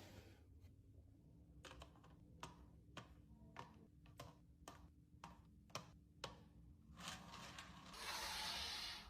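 Faint, light clicks and taps, about ten of them, spaced irregularly, as objects are handled. In the last two seconds a hiss rises and then cuts off suddenly.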